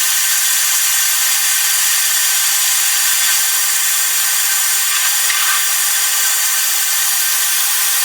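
Compressed air hissing steadily through a venturi-type coolant vacuum filler as it pulls the truck's cooling system down to vacuum.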